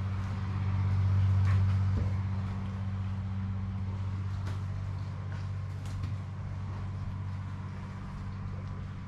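A machine running with a steady low hum, a little louder about a second in, with a few faint clicks over it.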